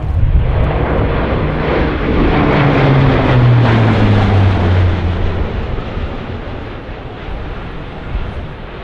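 An aircraft flying low past, its engine drone dropping in pitch as it goes by. It is loudest about three to four seconds in and then fades away.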